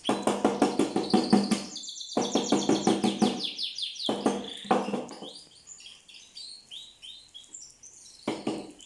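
A small songbird singing: fast runs of rapidly repeated notes broken by short pauses, then higher, thinner twittering.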